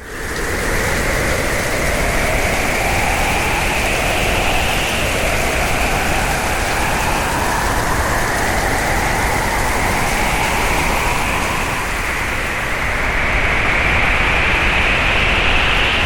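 Hurricane wind blowing hard and steadily, with a howl that slowly rises and falls in pitch. It grows a little louder after about thirteen seconds.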